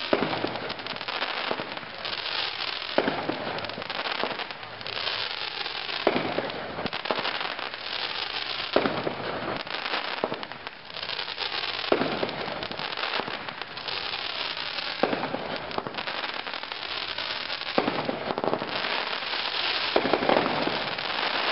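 Brothers 'Gunslinger' fireworks cake firing. Sharp bangs come about every three seconds, with continuous crackling between them.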